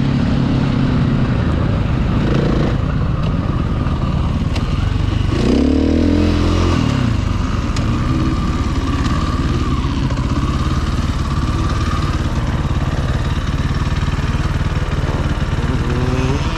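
Motocross bike engine being ridden hard, revving up and dropping back continuously, with a strong rev swell about six seconds in.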